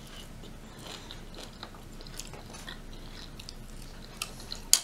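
Close-miked mouth sounds of a person chewing rotisserie chicken: many small wet clicks and smacks, with one sharper, louder click near the end.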